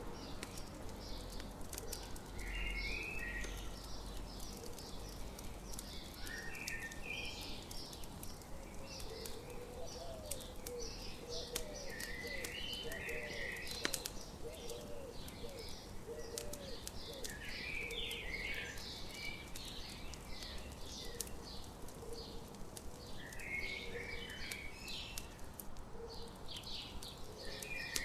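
Campfire crackling with frequent sharp pops, under birds singing: one bird repeats a short phrase every five or six seconds, and a run of quick low notes comes near the middle.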